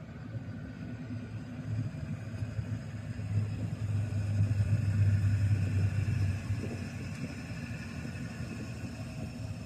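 Engine and road noise heard inside a moving vehicle: a steady low drone that swells louder about midway, then eases back.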